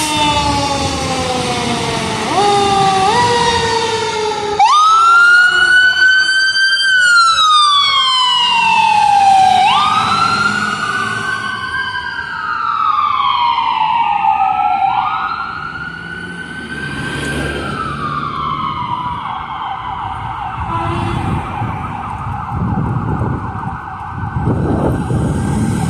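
Emergency sirens from a responding fire engine and ambulance. A siren winds down in pitch at first. About four seconds in, a wail starts, rising and falling roughly every five seconds. In the last several seconds it switches to a fast warbling yelp.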